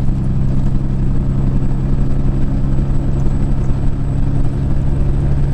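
Peterbilt 379 semi truck's diesel engine droning steadily at highway speed, heard from inside the cab with road noise underneath.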